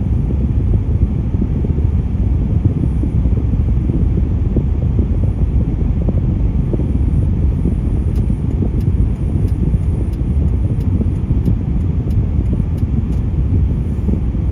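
Steady low rumble of road vehicles running, with no break.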